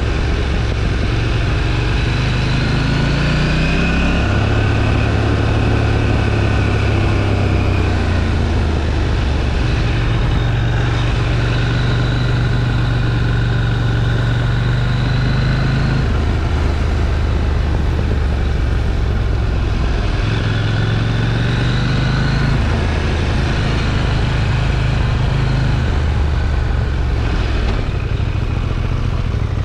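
KTM 790 Duke's parallel-twin engine through its stock exhaust, heard on board while riding. The revs climb a few seconds in and then hold steady, with the pitch dropping and rising again later as the throttle and gears change, over a steady rush of noise.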